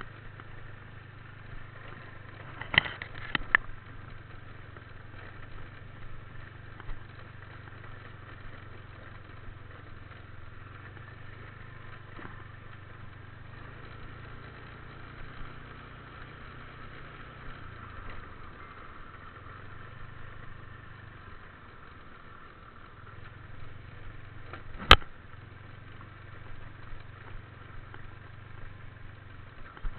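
Motorbike engine running steadily with a low hum. A short clatter comes about three seconds in, and a single sharp knock comes near the end.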